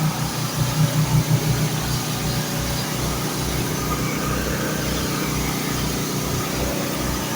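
An engine running, with a quick, even pulsing for about the first second and a half, then steadier.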